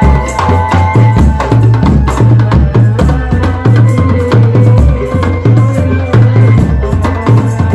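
Drum band playing loudly: a steady beat of heavy bass drums under percussion and a melody line.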